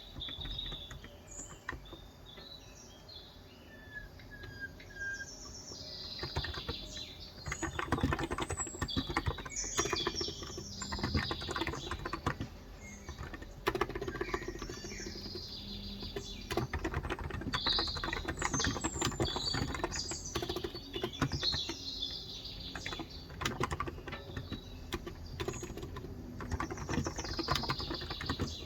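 Typing on a Cox Endeavour electro-capacitive (non-contact) tenkeyless keyboard with 35 g switches: scattered keystrokes at first, then steady, fast typing from about a quarter of the way in. Birds chirp throughout.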